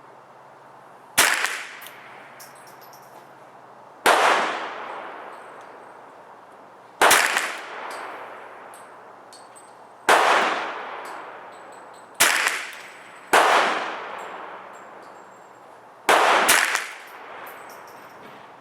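Sig 522 .22 LR semi-automatic rifle firing single shots a few seconds apart, eight in all, the last two close together. Each shot is a sharp crack that rings out and fades over a second or so.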